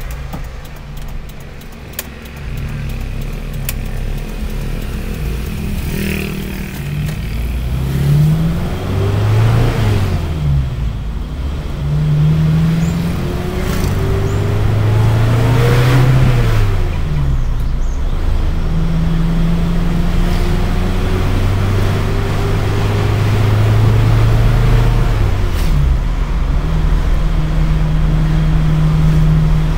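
Car engine heard from inside the cabin while driving, its pitch climbing as it accelerates and then dropping back at each gear change, several times over, with steady cruising in between.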